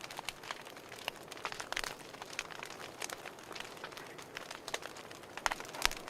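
Wood fire crackling: irregular pops and snaps over a soft hiss, with a few louder pops near the end.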